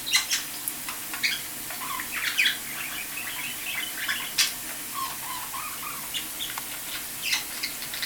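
Pet budgerigars chirping and chattering in scattered short chirps and warbles, with a few sharp ticks among them.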